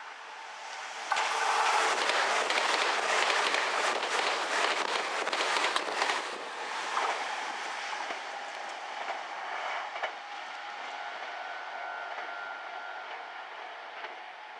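Meitetsu 1030-series electric train, built with equipment from the 7500 series, passing at speed over a level crossing. The wheels clatter loudly over the rail joints, starting suddenly about a second in and fading away after about six seconds as the train moves off.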